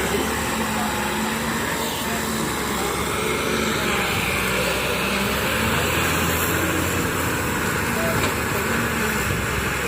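Wheeled excavator's diesel engine running steadily, with a low, even hum under a broad mechanical noise.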